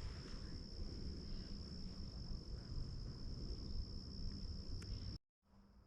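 Crickets trilling steadily in one continuous high tone over a low rumble. The sound drops out completely for a moment near the end, then the trill returns.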